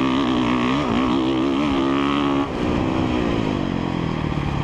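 2017 Honda CRF450R's single-cylinder four-stroke engine under a rider on a motocross track, held on throttle with the pitch wavering over bumps, then rolled off about two and a half seconds in, the revs falling away.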